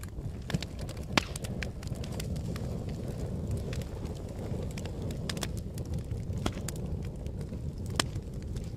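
Fire burning with a steady low rumble and scattered sharp crackles and pops. A louder pop comes about a second in and another near the end.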